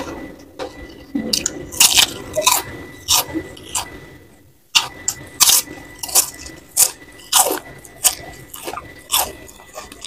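A person biting and chewing crunchy fried food: a run of sharp, irregular crunches about two a second, with a brief lull a little before the middle.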